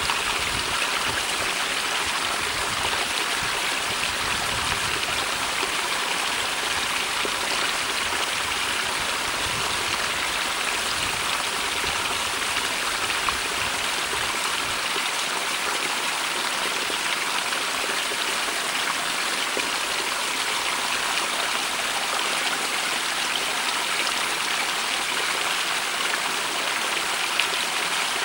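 A small stream running through a rock cleft, a steady rushing and babbling of water, with some uneven low rumbling during the first half.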